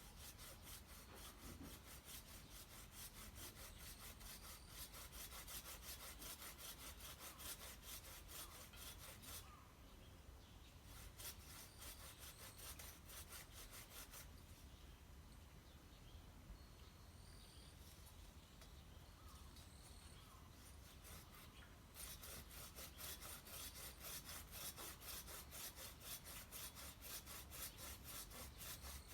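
Hand saw cutting through wood in steady back-and-forth strokes, about three a second. The sawing pauses briefly about ten seconds in, stops for several seconds in the middle, then starts again near the end.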